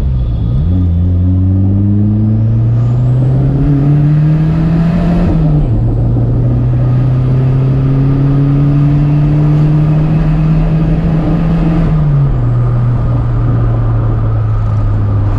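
Turbocharged Chevette DL's 1.6 OHC four-cylinder engine pulling on the road. The engine note climbs, drops about five seconds in as at a gear change, climbs slowly again and drops a second time about twelve seconds in. A faint high whistle rises and falls with it.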